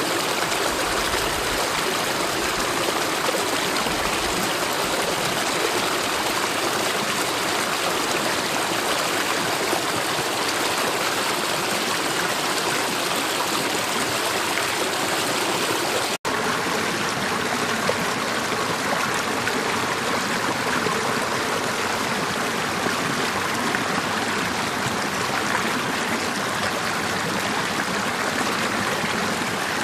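Mountain valley stream running steadily over rocks, a constant rushing and gurgling of water. The sound cuts out for a split second about halfway through.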